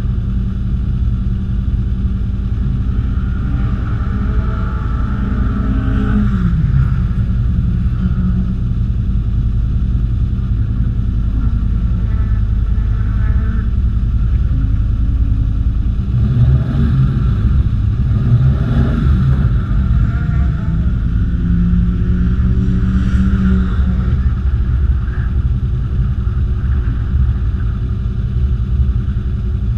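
Sprint car's engine idling at the start line, with the revs rising and falling a few times.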